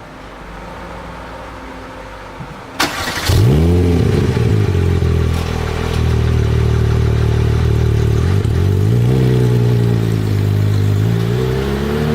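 Porsche 997 GT3 RS 4.0's flat-six with an Akrapovic exhaust starting up about three seconds in: a brief crank, a flare of revs, then a loud steady idle. The revs rise twice, around nine seconds and again near the end.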